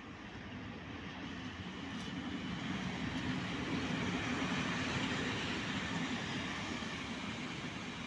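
Train passing: rumble and rail noise swell to a peak about halfway through, then ease off slowly.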